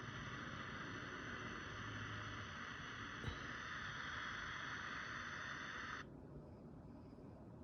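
Steady hiss from a handheld ultrasonic detector's speaker, an even static-like rush that cuts off suddenly about six seconds in, with one faint click near the middle.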